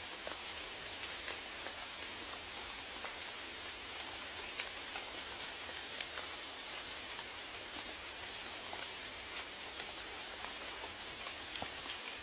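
Steady rain, with a hiss of falling rain and many separate drops ticking on a surface.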